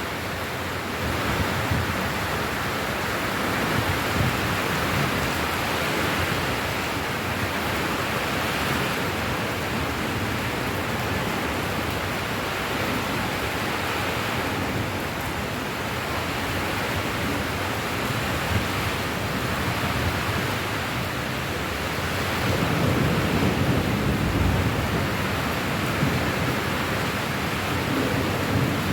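Steady rain, an even hiss. A low rumble swells up for a few seconds about three-quarters of the way through.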